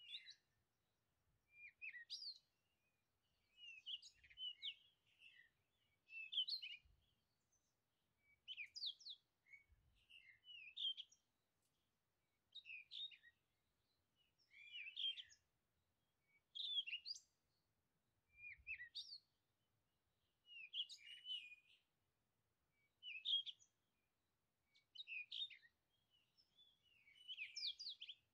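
A songbird singing short, high chirping phrases, one roughly every two seconds, with near silence between them.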